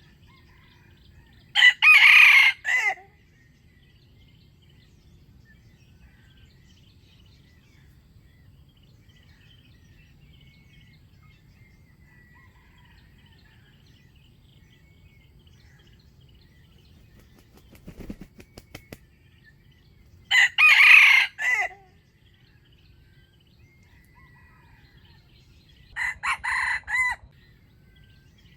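Wild junglefowl rooster crowing three times, each a short clipped crow of a second or so, the third quieter than the first two. A short run of faint clicks comes between the second and third crows, with faint small-bird chirping in the background.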